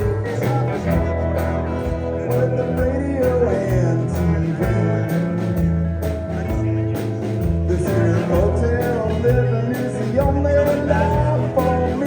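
A band playing a country-rock song with a steady drum beat under bass and guitar and a moving melodic line.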